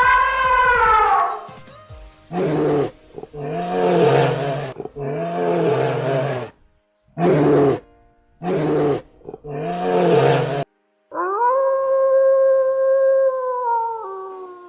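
A big cat roaring, about six rough roars in a row, after the tail of a higher gliding call. About eleven seconds in, a long steady howl begins and drops in pitch near the end.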